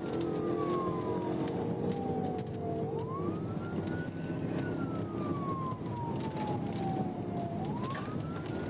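Police car siren in wail mode: the tone slides slowly down and then sweeps quickly back up, twice, over steady engine and road noise, and cuts off suddenly at the end.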